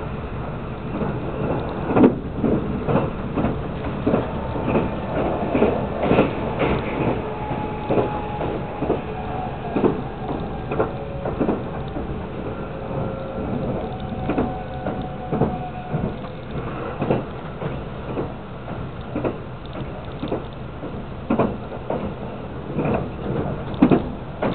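Moving train heard from inside the carriage: a steady rumble of the running gear with irregular sharp knocks as the wheels pass over the track, and faint drawn-out tones for a while in the middle.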